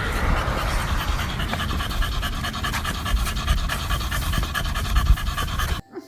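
A dog panting, cutting off suddenly near the end.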